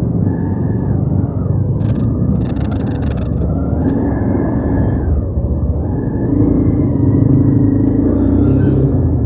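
Motorcycle engine running in slow traffic with road noise, its pitch rising and falling as it is throttled. A short burst of rapid crackling clicks comes about two seconds in.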